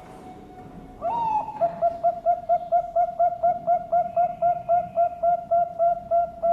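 Zebra dove (Bangkok-type perkutut) singing: a rising opening coo about a second in, then a fast, even run of short coos, about four a second.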